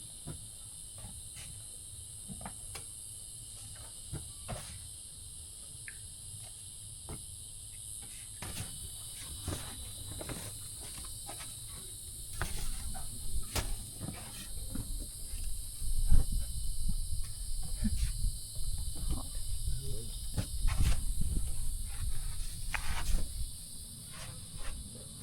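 A steady high-pitched insect chorus, typical of crickets, with scattered short clicks and knocks. About halfway through, a louder low rumbling noise with uneven peaks comes in and runs until shortly before the end.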